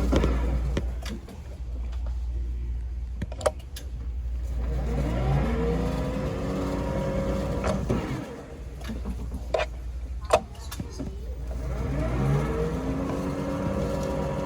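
Car engine running over a steady low rumble, twice dipping and then rising in pitch as it pulls away before holding steady, with a few sharp clicks.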